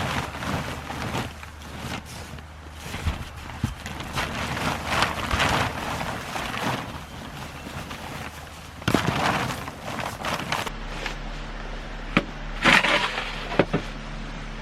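Irregular crunching and rustling in snow, a string of short scuffs with a few sharper, louder crunches near the end.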